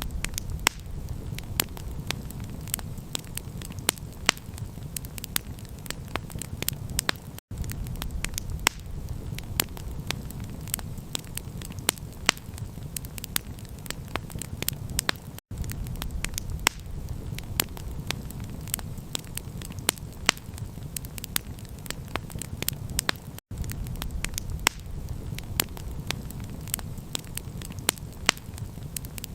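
Campfire crackling: a dense, irregular run of sharp pops and snaps from burning wood over a steady low rumble. The sound cuts out for a split second about every eight seconds, like a loop being restarted.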